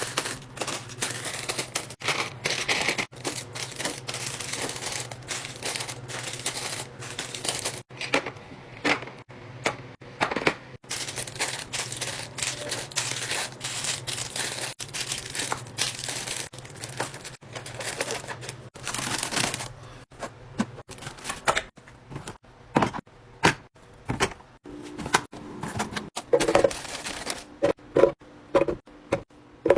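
Plastic packaging and containers being handled while a fridge is restocked: a dense run of sharp clicks, taps and crinkling. A steady low hum stops about two-thirds of the way through, and after that the clicks and knocks come more sparsely.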